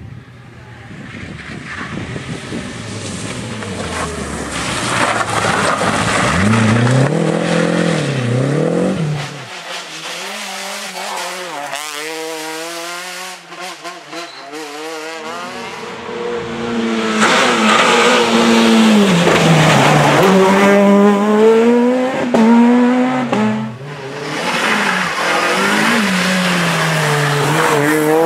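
Rally car engines revving hard, pitch climbing and dropping over and over as the cars accelerate, shift gears and brake through the corners, in several short clips one after another.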